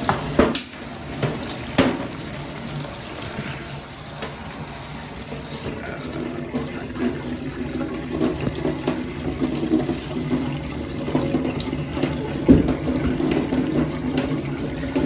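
Water running steadily from an open tap body whose headgear has been taken out, with a few sharp knocks as the tap parts are worked back in.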